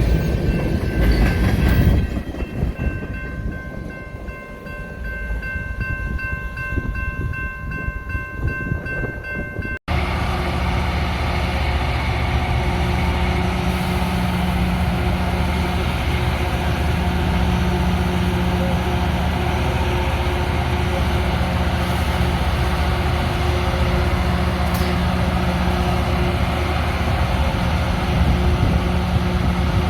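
LORAM rail grinder train's diesel engines running at a standstill. A quieter stretch carries a steady high whine. About ten seconds in, the sound cuts out for an instant and comes back as a louder, steady low drone.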